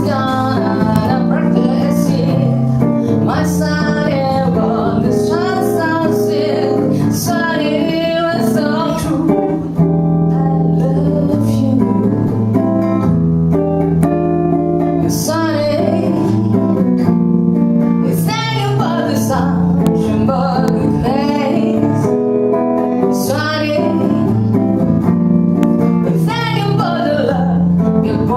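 A live band performing a song: a woman singing over guitar and other instruments.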